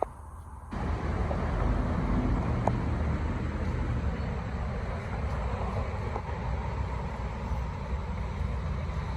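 Steady low rumble of outdoor road noise, with a couple of faint clicks.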